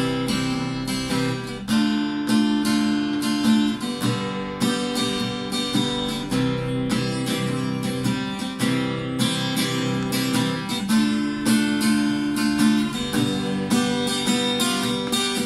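Acoustic guitar strummed in a steady rhythm, playing a song's instrumental intro without singing.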